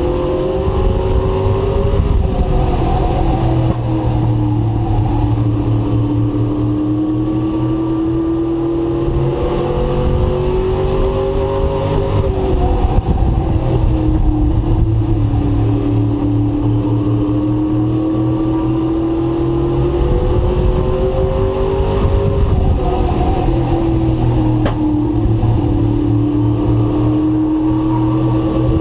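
Race truck engine heard from onboard, running at high revs. It climbs slowly in pitch down the straights and drops three times as the throttle comes off for the turns, lap after lap.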